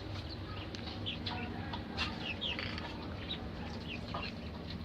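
Quail chirping: scattered short high chirps that slide down in pitch, several in a row, with a few faint clicks.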